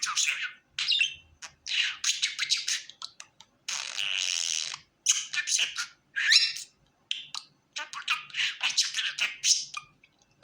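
Pet budgerigar chattering in quick warbling bursts of chirps and squawks with short pauses between. About four seconds in there is one steadier, harsher sound lasting about a second.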